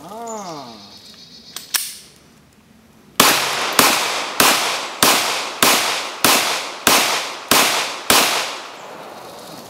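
Glock 22 .40 S&W pistol firing nine shots at a steady pace, about 0.6 s apart, each report echoing briefly, fed from an extended 29-round magazine. Two light clicks come a second and a half before the first shot.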